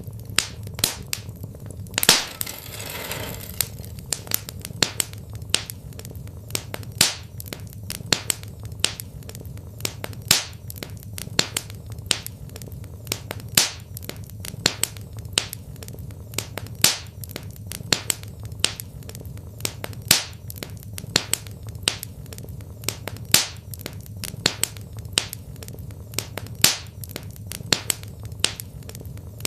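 Wood fire crackling in a fireplace: irregular sharp pops and snaps over a steady low rumble. About two seconds in, a louder pop is followed by a brief hiss.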